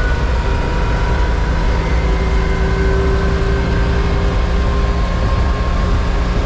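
Car engine running on gas from an onboard waste gasifier, kept under throttle as the car gathers speed, with its note creeping slowly upward. Heard from inside the cabin, mixed with steady road noise.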